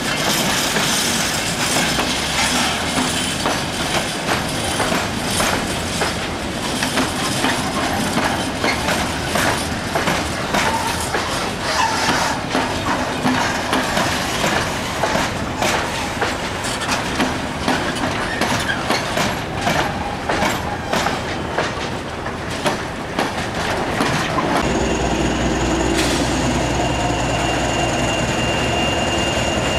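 A train passing close by, its wheels clicking rapidly and unevenly over rail joints. About 25 seconds in, the sound changes suddenly to a steady low hum with a thin high whine.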